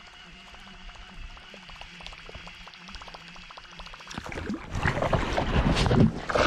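Water splashing and sloshing close to the kayak: quiet faint ticking at first, then loud irregular splashing starting about four seconds in.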